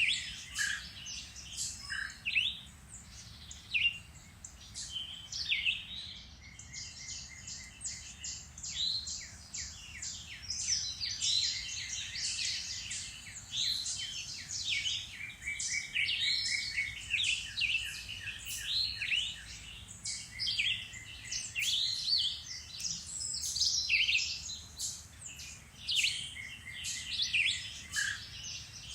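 Several songbirds singing and chirping, their overlapping calls and trills running continuously.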